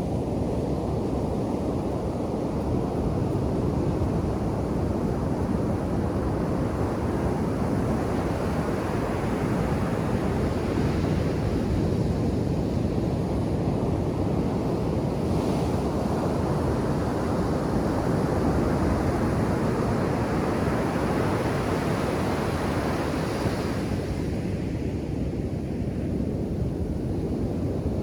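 Ocean surf breaking on a beach: a continuous wash of waves, with the hiss of breaking water swelling up around the middle and again a few seconds before the end, then falling back.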